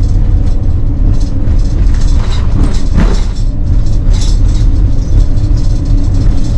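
Moving RV heard from inside the cab: a steady, heavy low rumble of engine and road, with light rattles and clatter from the rig.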